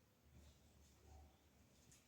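Near silence: room tone with faint low hum and a few soft handling ticks.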